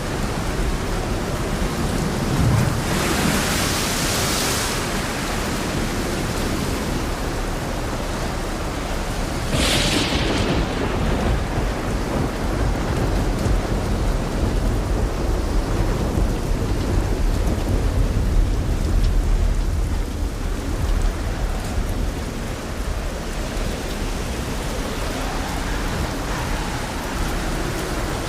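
Steady light rain and wind with rolling thunder: two louder claps, about three and ten seconds in, and a low rumble running on after the second.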